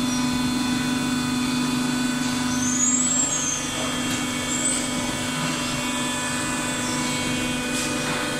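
Automatic waste-paper baler running, a steady machine hum with several fixed tones and no change in level.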